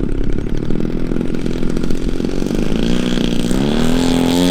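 Desert Aircraft DA-100 twin-cylinder two-stroke gas engine turning a large propeller on an RC plane. It runs at low throttle, then revs up about three seconds in and settles at a steady higher pitch as the throttle opens for takeoff.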